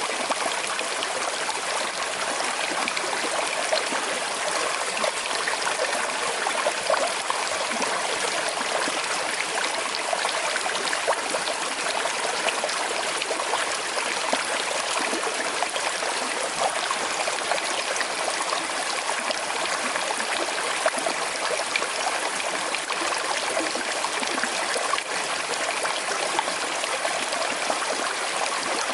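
Small river flowing over stones with a slight current, a steady, even rush and trickle of water.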